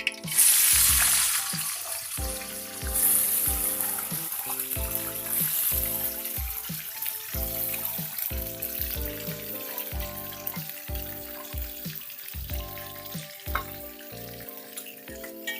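Food sizzling as it fries in hot oil in a pan, loudest just after the start and again around 3 seconds, then settling to a steady sizzle. Background music with a steady beat plays throughout.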